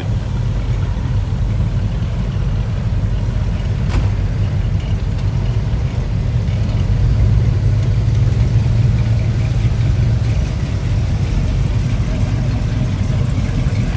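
A car engine idling with a steady low running sound that grows a little louder around the middle. A single sharp click about four seconds in.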